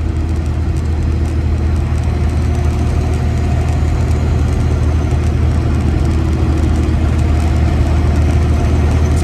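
Freightliner Classic XL semi truck's diesel engine running steadily under way, heard from inside the cab: a steady low drone mixed with road noise.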